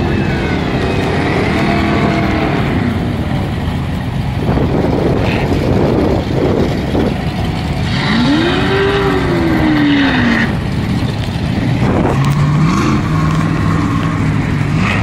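Car engines running and revving on and around a track, their pitch rising and falling; one engine revs up and back down about eight seconds in, and another climbs in steps near the end, over a steady rumble of traffic and wind.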